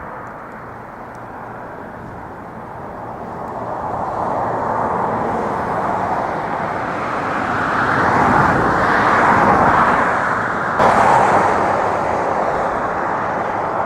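Road traffic noise: a steady rushing of passing vehicles, growing louder toward the middle and easing off near the end.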